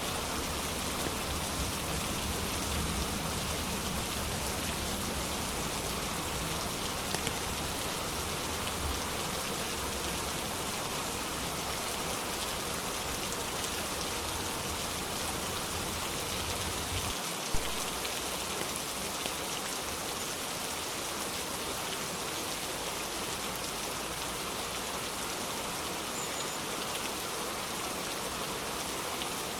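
Steady rain, an even hiss of drops with no letting up. A low rumble underneath cuts off a little past halfway, and a single sharp click is heard just after.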